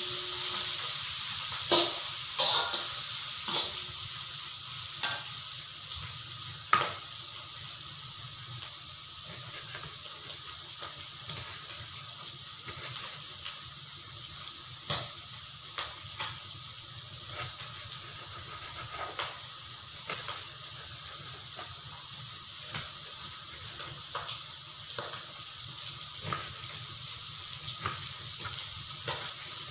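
Squid and sliced melinjo skin sizzling in a metal wok, a steady hiss with sharp pops now and then. A metal spatula scrapes and knocks against the wok in the first few seconds.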